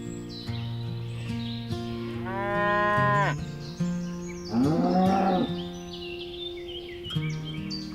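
Cattle mooing: two long calls, the first about two seconds in ending in a falling pitch, the second about four and a half seconds in, rising then falling. Background music with steady held notes plays underneath.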